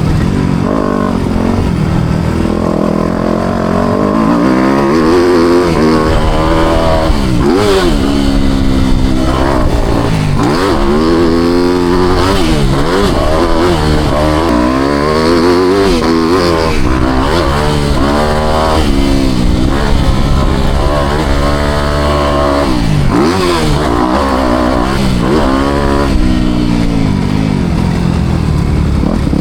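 Four-stroke motocross bike engine being ridden hard, its pitch climbing and dropping over and over every second or two as the throttle is opened and shut through the track's corners and jumps.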